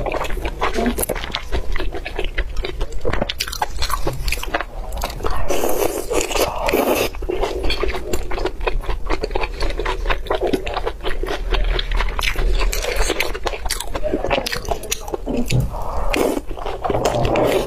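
Close-miked chewing of braised lamb intestines: a steady stream of many rapid, sharp mouth clicks and bites.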